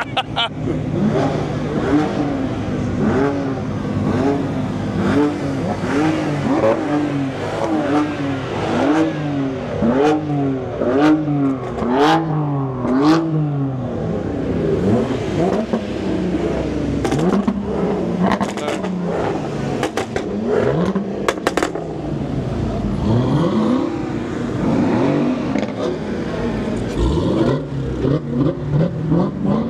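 A car engine being revved again and again, its pitch rising and falling in quick blips about once a second, then in slower, longer revs. A few sharp cracks come around the middle.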